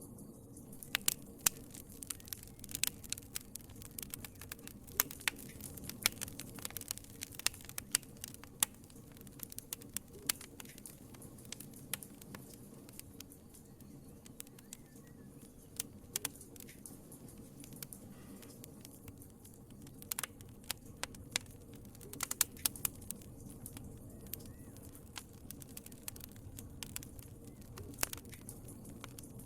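Wood fire crackling in a fireplace: irregular sharp pops and snaps over a soft steady rush of flame, thinning out midway and picking up again later.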